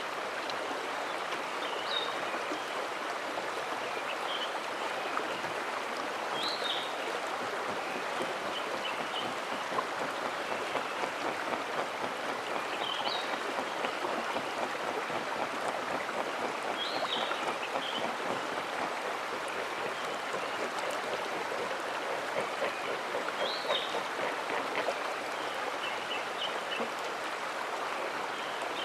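A mountain stream rushing steadily over rocks, with a small bird giving short high calls every few seconds.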